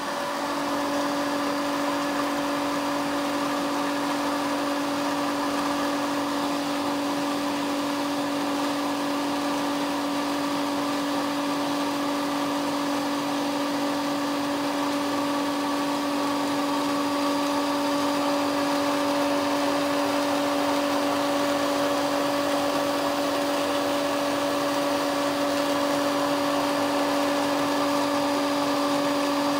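Crompton electric water motor pump running steadily, a constant motor hum with one strong fixed tone over a whirring hiss.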